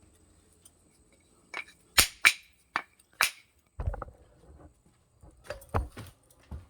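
A series of sharp clicks, with a few dull knocks about four seconds in and again near the end: a knife and a wooden, leather-faced strop block being handled as the strop is tried out.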